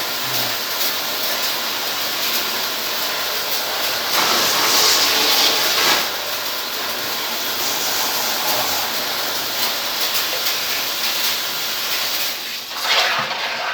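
A jet of water spraying onto an air conditioner unit makes a steady hiss. It grows louder for about two seconds in the middle and again briefly near the end.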